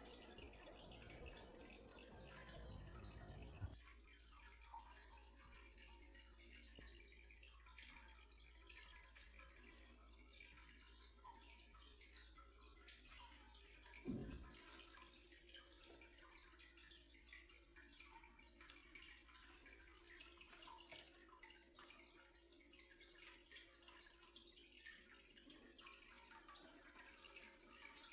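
Near silence: faint room tone with two soft knocks, the louder about halfway through.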